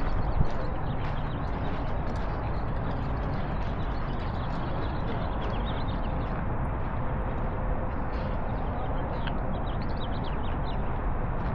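Steady outdoor background noise, heaviest in the low rumble, with faint high chirps in the second half.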